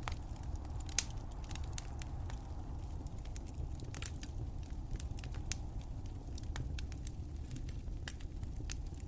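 Wood fire crackling, with irregular sharp pops over a low steady rumble; one sharper pop about a second in.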